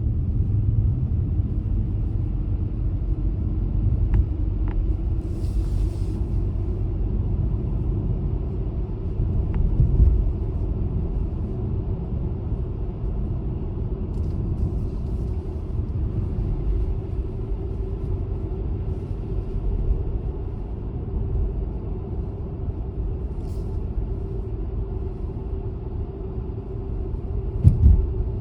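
Car driving with a steady low rumble of road and engine noise. There is a brief hiss a few seconds in, and two short thumps, about ten seconds in and near the end.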